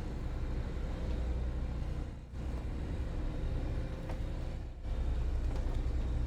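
A motor cruiser's inboard engine running steadily under way, a low drone with a faint steady hum above it. The sound dips briefly twice.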